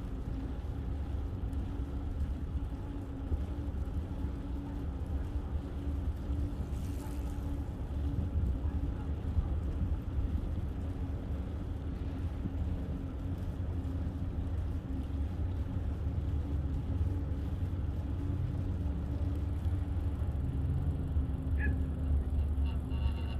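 Steady low rumble with a faint even hum running through it, like traffic or riding noise, and a short high chirp near the end.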